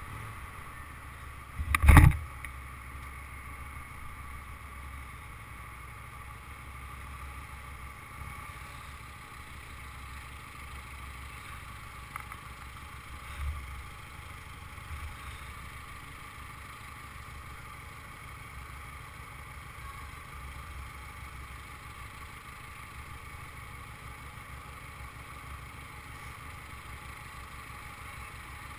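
Motorcycle engine running low and steady, heard muffled at slow speed and idle in traffic. About two seconds in there is one brief loud thump.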